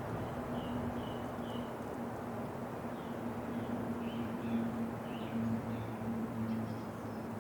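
Steady winter wind with a low, even hum underneath, and a small bird giving short high chirps, a few at the start and a cluster from about three to six seconds in.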